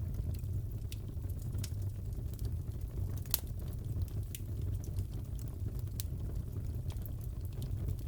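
Fireplace crackling: a steady low rumble of the burning fire with scattered sharp pops and snaps, one louder pop about three and a half seconds in.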